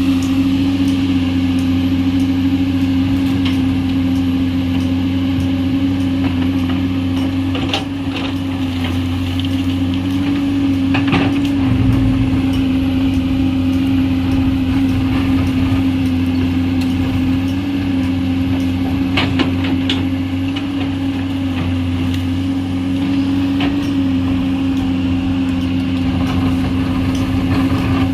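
Komatsu PC210 excavator's diesel engine running steadily under load, with a few short knocks and scrapes from the bucket working earth and stone.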